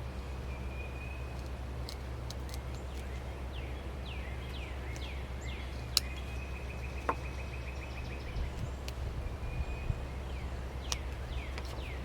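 Birds calling in the background, short chirps that slide downward in pitch with a couple of longer trilled notes, over a steady low hum. A few sharp clicks come from the carving knife cutting into wood, the strongest about six seconds in.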